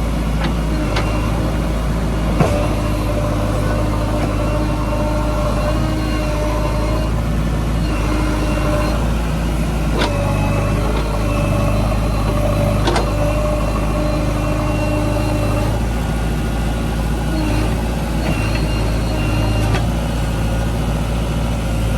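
Diesel engine of a JCB 3DX backhoe loader running steadily, with a few sharp knocks from the work.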